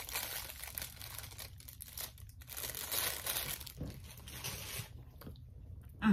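Clear plastic food wrapper being torn open and crinkled by hand, an irregular crackling that dies away about five seconds in.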